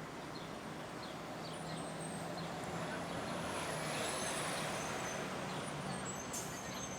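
Street traffic: a heavy vehicle's engine drones and swells as it passes, loudest around the middle, with a short hiss near the end. Small birds chirp repeatedly over it.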